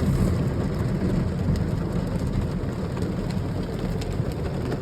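Automatic car wash spraying water over the car, heard from inside the cabin as a steady, deep rushing and drumming like heavy rain on the roof.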